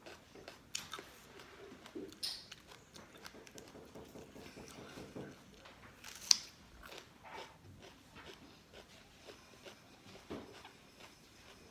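A person biting into and chewing slices of crisp raw orange bell pepper, with scattered crunches and one sharp, loud crunch about six seconds in.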